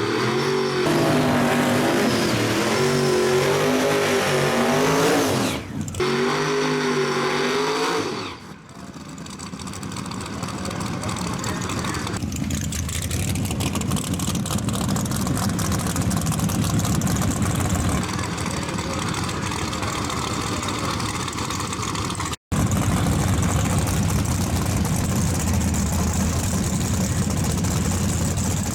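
Drag-racing car engines revving hard with a wavering, bouncing pitch, broken by abrupt cuts. After that comes a steadier loud engine noise with a falling sweep, as a car runs down the track.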